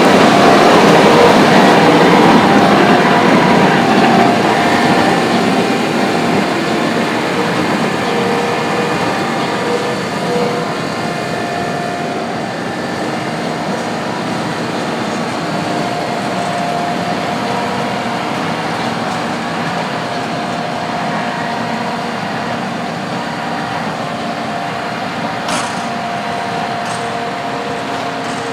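Heavy farm machinery running: a steady mechanical drone with faint engine tones, loudest at the start and fading over the first dozen seconds, then holding steady, with a couple of faint clicks near the end.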